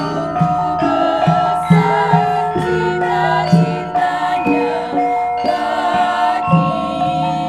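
Javanese gamelan ensemble playing, with struck metallophones whose notes ring on and overlap, and voices singing together over them.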